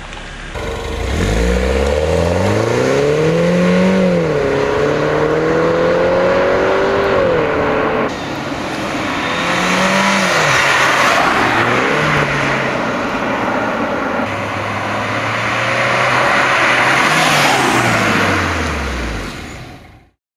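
MINI Roadster Cooper S's turbocharged 1.6-litre four-cylinder accelerating hard through the gears, its note climbing with the revs and dropping at each upshift, about four and seven seconds in, over a loud rush of wind and road noise. Near the end the revs peak once more, then the note falls away as the car slows, and the sound cuts off suddenly.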